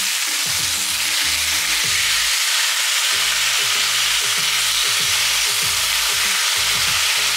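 Food frying in hot oil, a steady loud sizzle, with music playing underneath.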